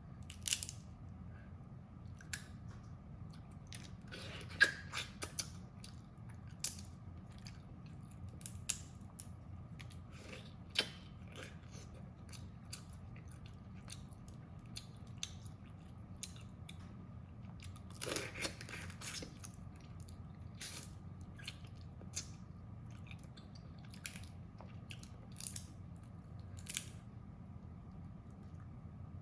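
Crab shells cracking and being crunched and chewed during eating: scattered sharp cracks and clicks, with a busier cluster about 4 to 5 seconds in and another around 18 seconds, over a steady low hum.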